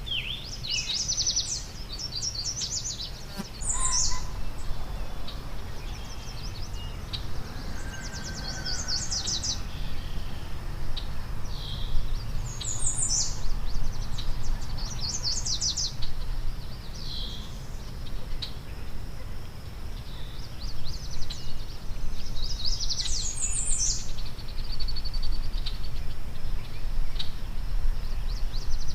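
Songbirds calling, with short bursts of rapid high chirping notes every few seconds, over a steady low background rumble.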